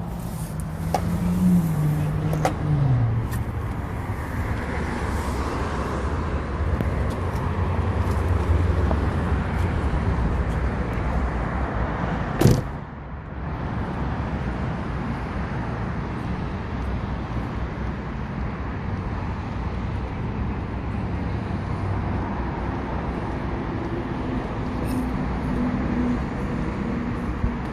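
Road traffic: car engines and tyre noise from passing vehicles, with one sharp knock about twelve and a half seconds in.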